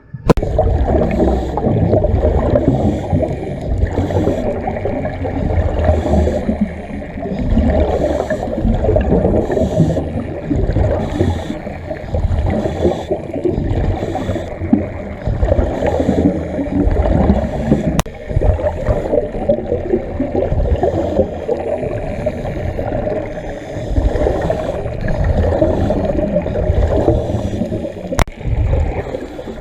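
Muffled rumbling and gurgling of water heard through a camera underwater on a scuba dive, with recurring flurries of bubbling.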